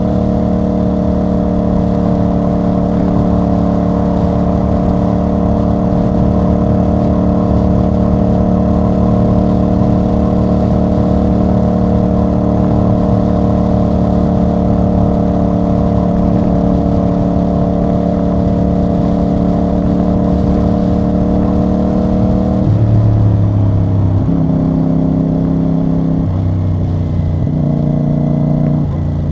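CF Moto CL-C 450 cruiser's parallel-twin engine and exhaust heard from the rider's seat, holding a steady speed. From about 23 s in, the engine note jumps to a new pitch several times in quick succession as the rider shifts gears.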